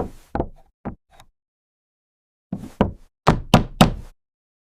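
A series of sharp knocks: a few light taps at the start, then a quick run of about six louder knocks a little past the middle.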